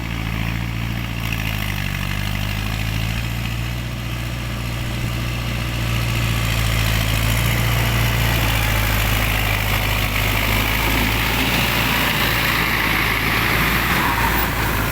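Tractor engine running steadily under plowing load, growing a little louder about six seconds in.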